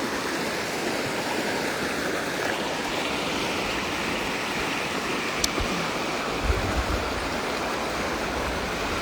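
Steady rush of flowing water, with a single sharp click about five seconds in and low rumbles coming in near the end.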